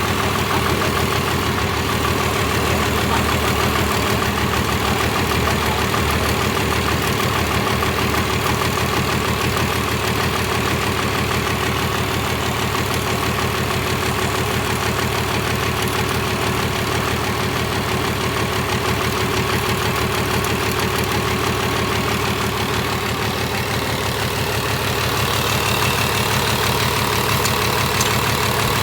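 Toyota 13Z diesel engine running at a steady idle.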